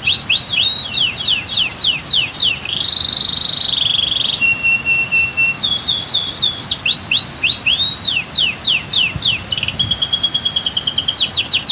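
Domestic canary singing a long, varied song: fast runs of repeated downward-slurred notes, broken by a held buzzy trill a few seconds in, then a steady pure whistle, then more rapid runs and another held note near the end.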